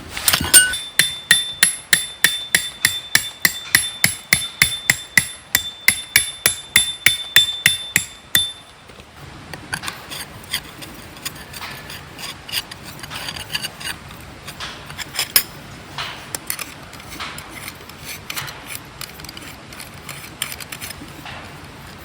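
Rapid hammer strikes on metal, about four a second, each leaving a high metallic ring; they stop about eight seconds in, leaving scattered light taps and clicks.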